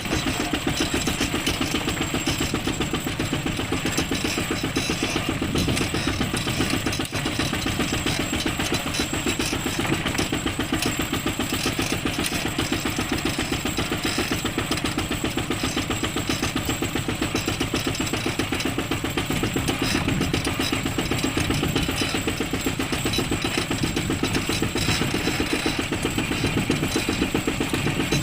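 ZT155 tractor's diesel engine running steadily under way, a fast even chugging with no change in speed.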